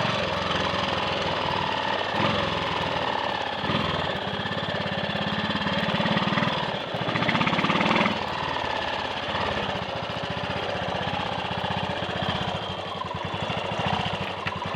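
Triumph Sports Cub's single-cylinder four-stroke engine running under way, its firing pulses speeding up and slowing with the throttle, with a dip and rise in engine speed about seven seconds in. It fires evenly, without the misfire or cutting out that rust silt around the carburettor's main jet had been causing.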